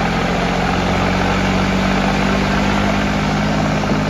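Tractor diesel engine running at a steady pitch.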